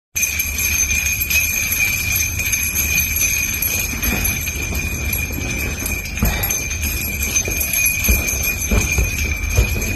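Small metal bells jingling without a break, with a low rumble and a few knocks underneath, typical of hanging objects shaken during an earthquake.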